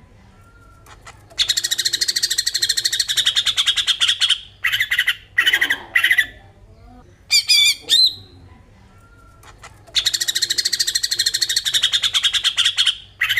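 Green leafbird (cucak ijo) giving its harsh, rapid rattling 'besetan' call in long bursts of about three seconds, with short sharp notes and a few whistles between; the same sequence repeats, as from a looped recording.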